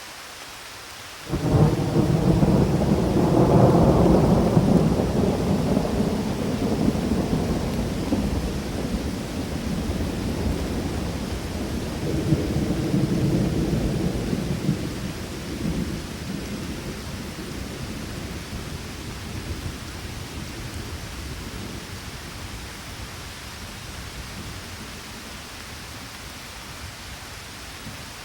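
Thunder over steady rain: a sudden crack about a second in turns into a deep rumble, which swells again about halfway through and then dies away, leaving only the steady hiss of the rain.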